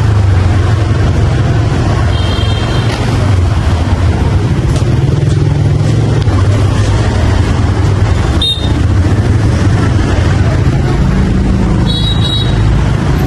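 Motorbike engine running while riding through city traffic, its pitch stepping up and down with speed, over steady wind and road noise. Two brief high tones sound, one about two seconds in and one near the end.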